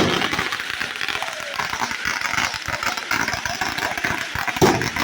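Fireworks going off: a dense run of crackling pops, with louder bangs right at the start and about four and a half seconds in.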